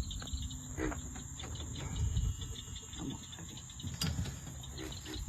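Steady high-pitched insect chorus of crickets, with low rumbling handling noise and a few faint knocks underneath.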